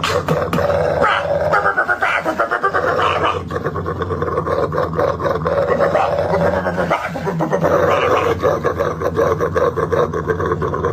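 A dog growling, with rapid pulsing throughout.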